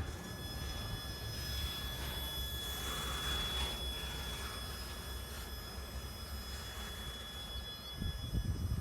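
Freight train rolling past, with a low rumble and a thin, steady high-pitched wheel squeal.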